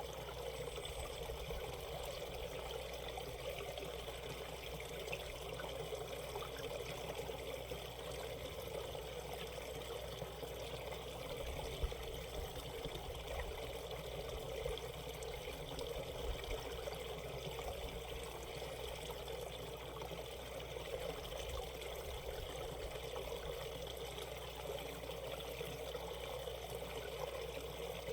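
Shallow mountain stream flowing and trickling over rocks, a steady, even rush of water.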